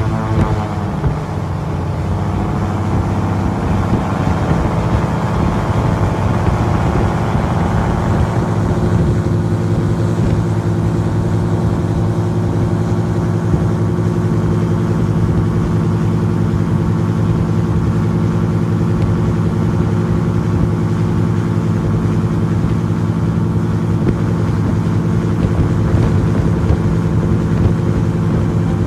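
Airboat engine and propeller running loud and steady. The pitch rises over the first several seconds as the boat speeds up, then holds.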